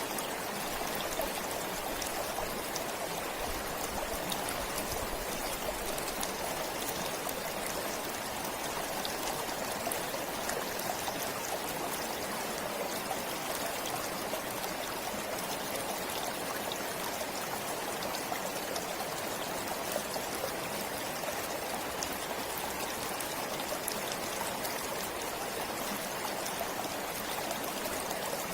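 Forest stream flowing steadily: a continuous rush of water with fine trickling and splashing.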